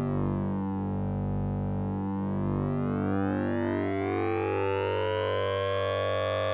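Synthesizer tone made with the Orange Vocoder plugin's sync and ring effect: a steady low drone with a bright band of overtones that slowly sweeps down, climbs over several seconds, and starts to fall again near the end. It has a metallic, siren-like quality.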